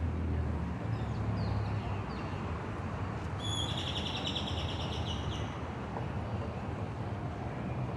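A songbird gives a rapid high trill lasting about a second and a half, a few seconds in, with a few faint chirps before it. Underneath runs a steady low traffic rumble.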